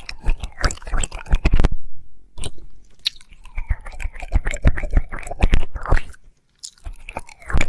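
Wet mouth sounds of ASMR ear licking right at the microphone: tongue clicks, smacks and slurps in quick irregular runs. They stop dead twice, briefly, about two seconds in and again near six and a half seconds.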